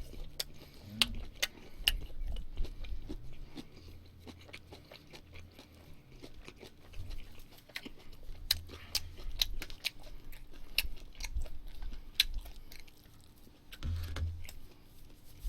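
Close-miked chewing: a person eating with the mouth working, giving many small wet clicks and smacks.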